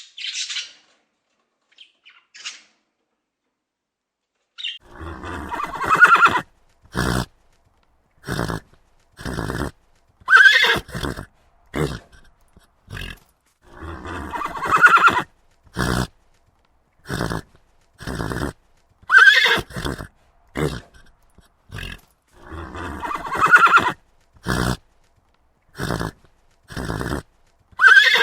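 Horse neighing again and again: a long whinny about every four to five seconds, with short sharp sounds in between. It starts after a few seconds of quiet.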